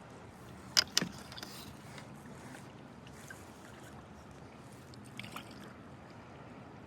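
Kayak paddling on fast, high river water: steady water rush with two sharp knocks just under a second in and a few fainter clicks later.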